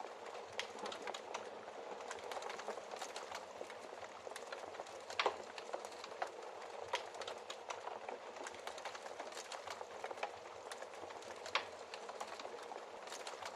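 Wood fire crackling steadily in a fireplace, a dense run of small snaps over a soft hiss, with sharper pops about five seconds in and again shortly before the end.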